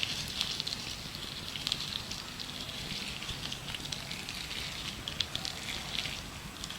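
Gloves rubbed and crinkled close to the microphone: a dense, continuous run of small crackles.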